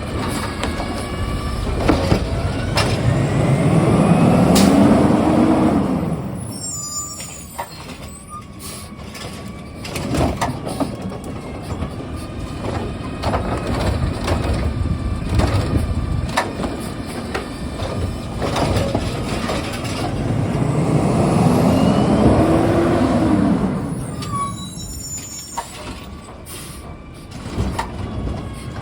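Recycling truck's diesel engine revving up and settling twice, each time to drive its hydraulic lift. Each rev is followed by clatter and sharp knocks as the load is handled.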